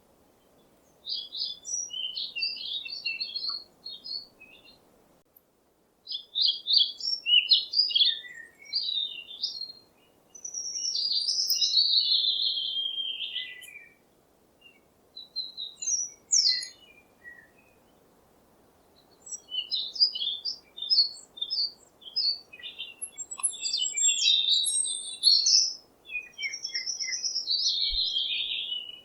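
Songbirds chirping in bursts of quick, high notes, with longer falling warbled phrases about ten seconds in and again near the end, and short pauses between bursts. A faint steady hiss lies underneath.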